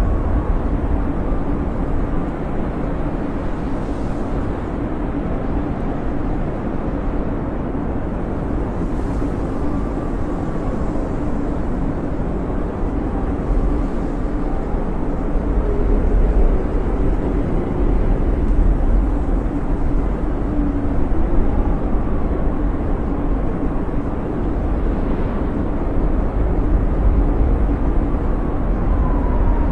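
Snowstorm wind howling: a steady low roar with faint whistling tones that waver in pitch, gusting a little stronger from about halfway.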